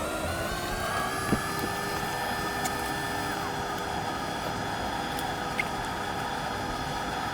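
A hot-air rework blower whirring. Its pitch rises as it comes up to speed in the first second, then holds steady, with a couple of faint clicks.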